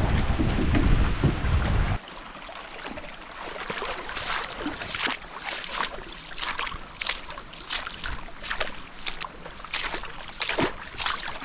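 Wind buffeting the microphone with a loud low rumble, cut off suddenly about two seconds in. It gives way to water splashing and lapping in many short, uneven splashes on open water.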